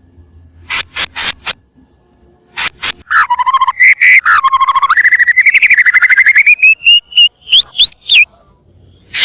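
White-rumped shama singing: a few sharp clicking chips, then a fast rattling trill that climbs slowly in pitch over about four seconds, ending in several quick whistled sweeps.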